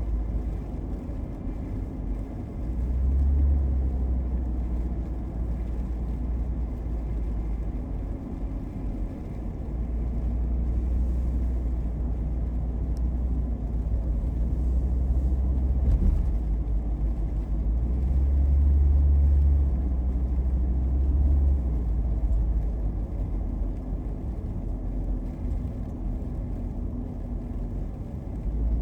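Car driving: a steady low rumble of engine and road noise that swells a few times and eases back.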